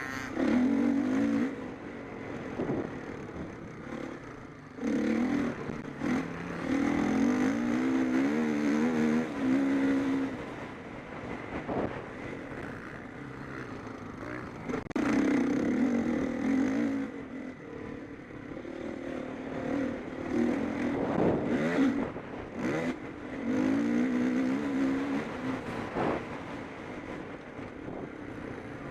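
Motocross bikes racing past, their engines revving up and dropping back again and again as riders work the throttle and shift gears, in several loud passes.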